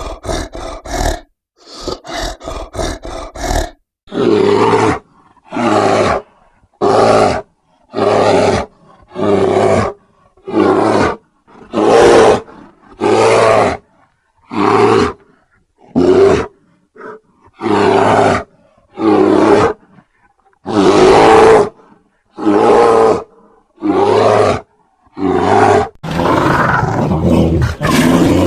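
Grizzly bear roaring again and again: short choppy growls for the first few seconds, then a string of separate roars about a second apart, and a longer unbroken roar near the end.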